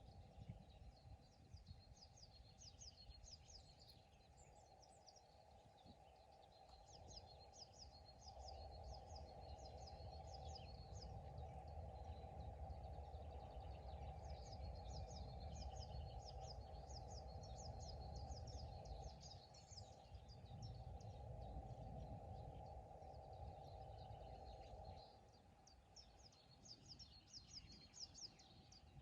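Faint pond-side birdsong: songbirds repeating quick series of high, down-sweeping notes, over a steady low rumble that swells for a while in the middle.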